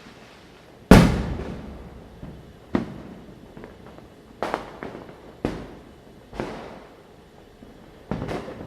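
Firecrackers going off: a loud bang about a second in, followed by five or six sharper bangs spaced about a second apart, each with a short echoing tail.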